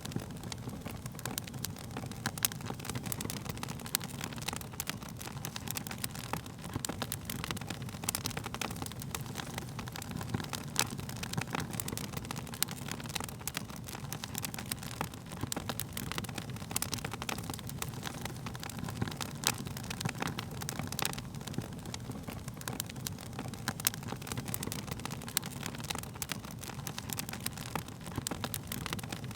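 Wood fire burning, with irregular sharp crackles and pops of burning wood over a steady low rumble of flames.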